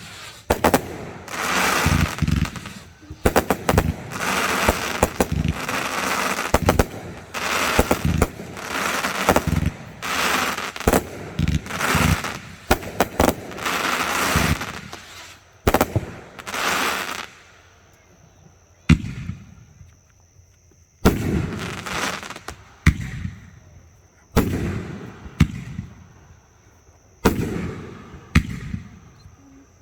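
Fireworks going off: rapid bangs of shell launches and bursts, each trailing into crackle, packed tight for about the first half, then coming in separate volleys with short gaps.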